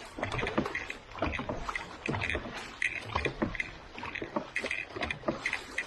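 Dragon boat paddles dipping and pulling through the water in repeated strokes, about one every half second or so.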